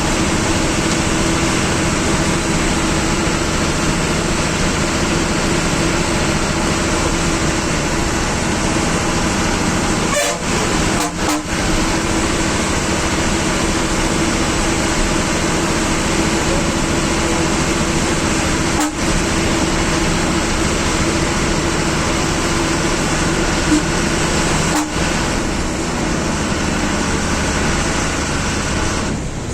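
Bus engine running steadily under the rumble of road noise inside the cabin. A steady low drone runs underneath, and the sound dips briefly a few times.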